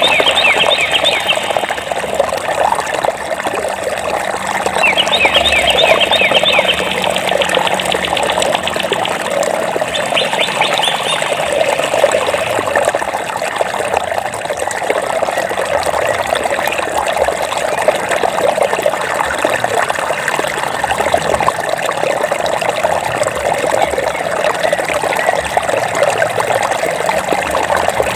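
Water flowing and babbling steadily, like a small stream. A bird sings quick runs of repeated high chirps three times in the first twelve seconds or so, one of them a fast trill.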